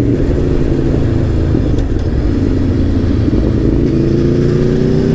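Aprilia Tuono V4 1100 Factory's V4 engine running on the move, a steady drone under a constant rumble. From about four seconds in its pitch climbs smoothly as the bike gathers speed.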